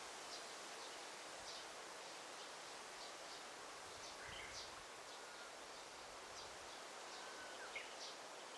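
Forest ambience: a steady soft hiss with birds chirping, short high chirps repeating every second or so and a couple of lower sliding bird notes around halfway and near the end.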